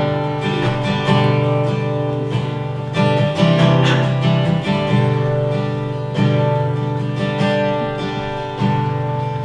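Acoustic guitar strumming chords steadily, the instrumental introduction to a worship song before the singing comes in.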